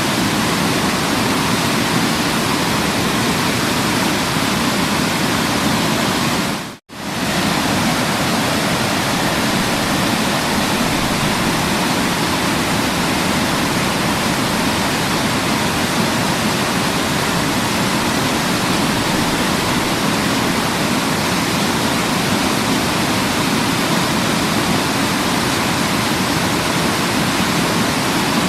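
Waterfall rushing in a steady, even roar of water noise. About seven seconds in it briefly fades out to near silence and straight back in.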